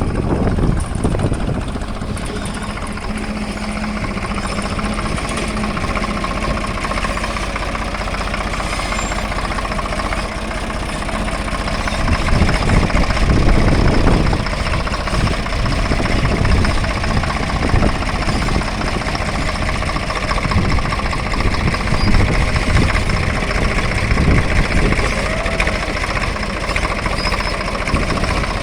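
Farm tractor engine running steadily, with the sound growing louder about twelve seconds in.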